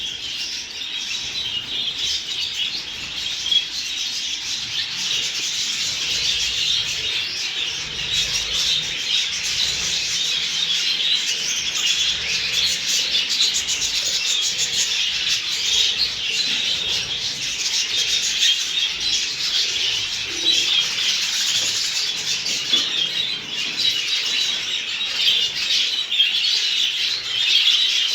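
A large flock of budgerigars chattering and chirping all at once, a dense, unbroken warble that never pauses.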